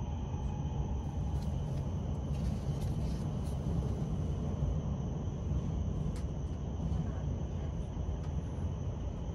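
Steady low rumble of a Shinkansen bullet train running, heard from inside the passenger cabin, with a few faint paper rustles as a menu leaflet is handled.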